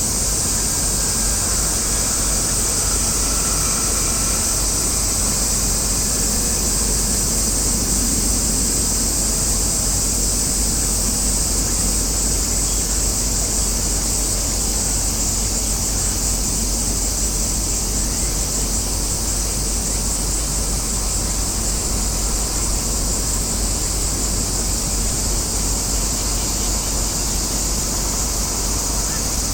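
Steady outdoor ambience: a constant high-pitched buzz over a low rumble, unchanging throughout.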